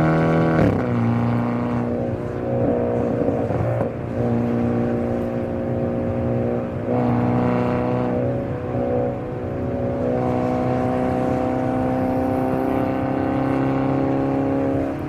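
Hyundai Avante N (Elantra N) turbocharged four-cylinder engine and exhaust while driving. The engine note drops sharply about half a second in, then runs at a fairly steady pitch with a few small rises and dips.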